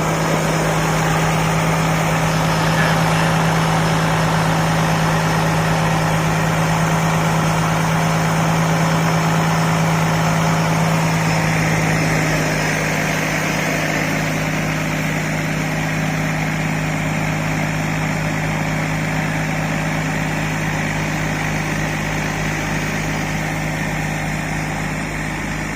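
IVECO 420 6x6 truck's diesel engine running steadily under load as it pulls a loaded trailer uphill. Its note drops slightly about twelve seconds in.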